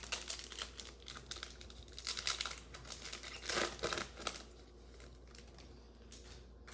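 Plastic foil trading-card pack wrapper crinkling and tearing as it is opened, in irregular crackles that die down after about four seconds.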